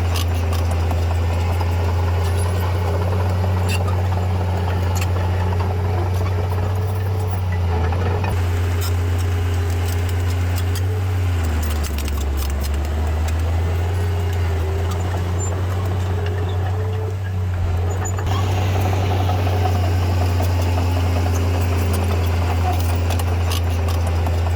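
Heavy diesel engine of earthmoving machinery running steadily with a deep hum. Its pitch sags for a couple of seconds about halfway through, as if pulled down under load, then picks up again.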